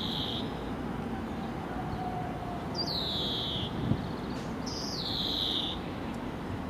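A bird calling three times with clear high whistles, each sliding down in pitch and then holding, about two to three seconds apart, over a steady low background hum.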